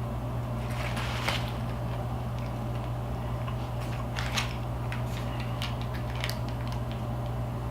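Close-up chewing and biting of a crispy fried chicken sandwich, with small crunches and wet mouth clicks, over a steady low hum.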